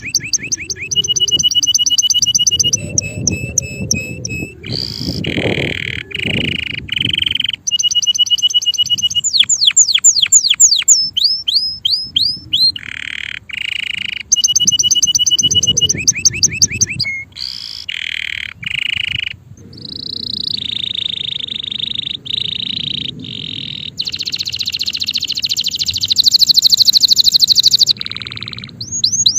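Male canary singing a long, loud song made of rapidly repeated notes, switching to a new phrase every second or two: fast trills, sweeping down-slurred notes and buzzy rolls.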